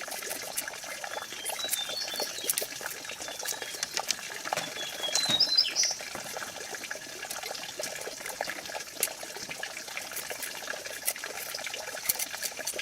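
Steady trickling water with scattered light clicks and taps, and a few brief high chirps about two and five seconds in.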